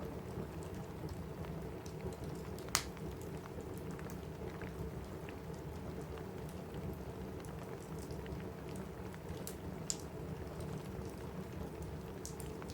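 Steady rain falling on a cabin roof, a dense low patter, with a crackling wood fire: scattered small pops and one sharp crack about three seconds in, another near ten seconds.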